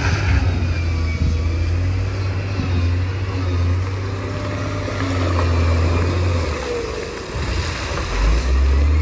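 Bulldozer diesel engine running with a deep, steady drone. About seven seconds in the note drops lower, then it picks up again near the end.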